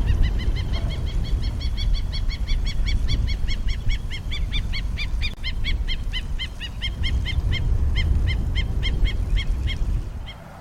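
American avocet calling: a long run of short, sharp, high call notes repeated about four times a second, slowing slightly toward the end, over a steady low rumble.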